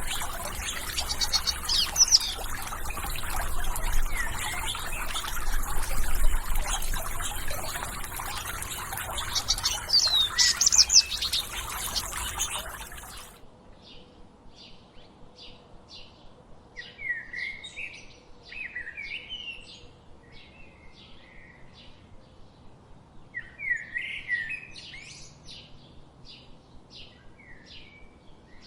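Wild birds chirping and singing over a steady, noisy rushing background. About halfway through this cuts off abruptly to a quieter recording of birds giving rapid, evenly repeated high chirps with short warbling phrases between them.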